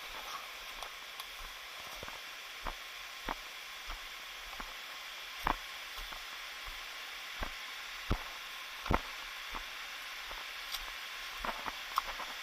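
A steady hiss, as of rushing stream water, with about a dozen irregular knocks and taps close by, the loudest about halfway through.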